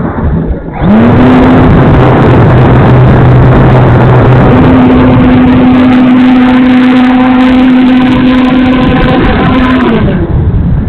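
Electric motor and propeller of a Parkzone T-28 radio-controlled model plane running under throttle, with a loud rushing noise over it: the pitch jumps up about a second in, drops lower about two seconds in, rises again near the middle, and falls away as the throttle is cut near the end.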